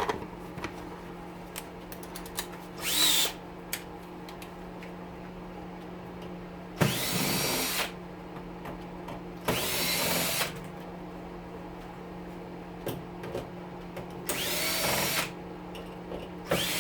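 Power drill with a Phillips bit backing screws out of an oven's sheet-metal panels: five short runs, each winding up in pitch as the motor spins up, with pauses between. A steady low hum runs underneath.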